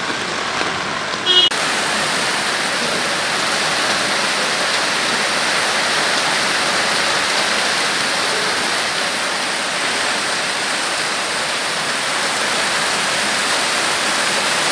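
Heavy rain mixed with hail falling on hard ground, a steady even hiss that comes in louder about a second and a half in.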